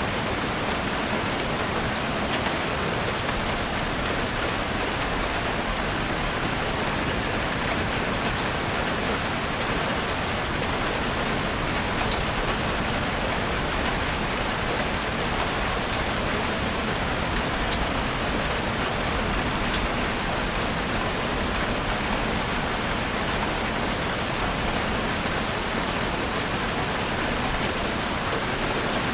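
Heavy rain pattering steadily on a roof, a dense even hiss with countless fine drop ticks and no letup.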